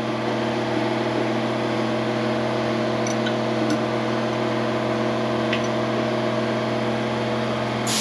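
Electric hydraulic pump motor of a vehicle lift running with a steady hum, raising the lift. A couple of faint ticks come about three seconds in, and the hum cuts off abruptly near the end.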